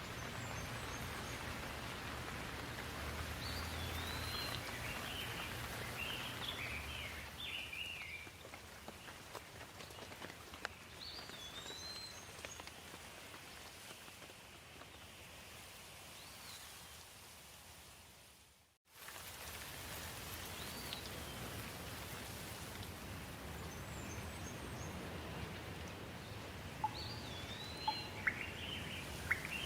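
Steady rain with birds calling at intervals over it. The sound fades down to a brief silence about nineteen seconds in, then comes back, with a few sharp ticks near the end.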